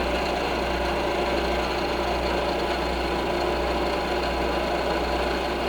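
Milling machine running with its spindle at about 1500 RPM and a carbide cutter fitted: a steady, even hum with several constant tones. There are no sharp cutting sounds while the cutter is brought down to touch off the top of the workpiece.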